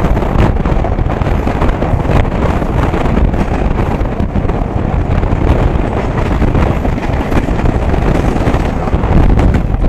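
Two passenger trains running side by side on parallel tracks, heard from the open doorway of one of them: a loud, steady rumble of wheels on rails with scattered clicks, and wind rushing over the microphone.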